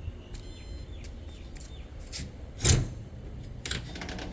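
A few light clicks and knocks, then one loud thump a little over halfway through and a smaller knock about a second later, over a low steady hum.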